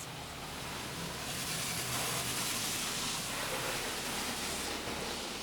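Pre-soak spraying from a Vector automatic car wash arm onto the car, heard from inside the car: a steady hiss that swells about a second in and eases off near the end, over a low hum.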